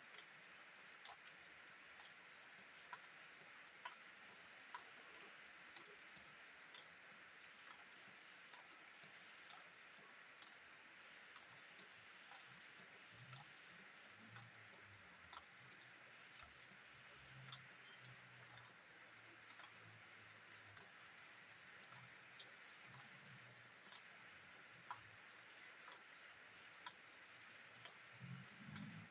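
Faint steady rain hiss with individual drops ticking sharply, scattered about one to two a second. A faint low hum comes in for a few seconds around the middle.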